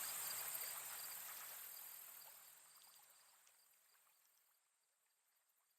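Faint, steady hiss of outdoor ambience that fades out over the first two to three seconds, leaving near silence.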